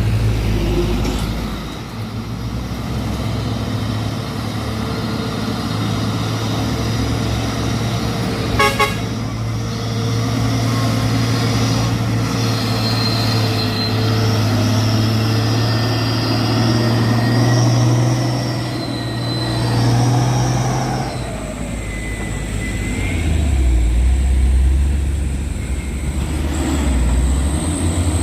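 Heavy truck diesel engine drone, steady for about twenty seconds, then dropping to a lower note near the end. A short horn toot sounds about nine seconds in.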